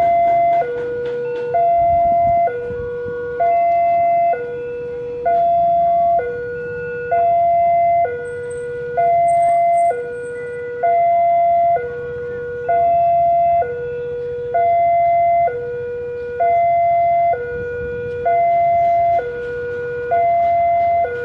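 Railway level-crossing warning alarm sounding a steady two-tone high-low signal, each tone held just under a second and repeating throughout, over a low rumble. The alarm warns road traffic that the crossing is closed for a train.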